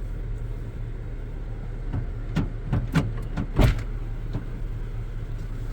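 Vehicle engine running at a steady low drone while driving slowly over a field, with a few sharp knocks or rattles about two to four seconds in.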